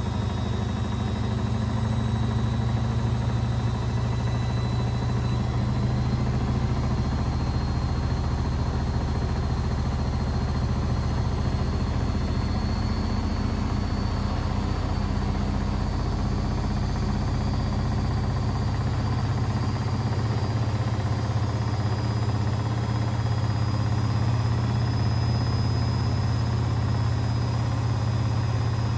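Beko WMB 71643 PTE washing machine running, with a steady low hum and a thin high whine from its brushed motor that rises slowly in pitch as the motor speeds up.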